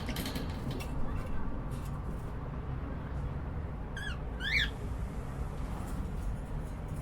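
Cockatiel giving two short rising chirps about four seconds in, after a few light clicks in the first two seconds, over a steady low background rumble.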